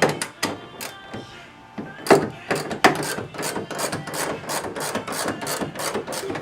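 Hand ratchet wrench clicking in quick back-and-forth strokes, about three a second, with a short pause about a second in, as bolts are backed out.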